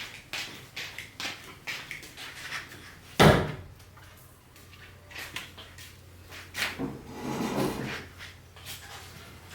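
Scattered knocks and clicks of objects being handled, with one loud sharp knock about three seconds in and a longer scraping, rustling stretch past the middle.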